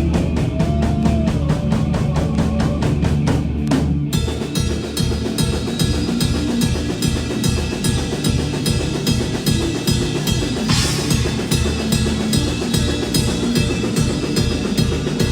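Live rock band playing, the drum kit driving a fast, steady beat over bass and guitar. Cymbals come in brighter about four seconds in, with a crash about eleven seconds in.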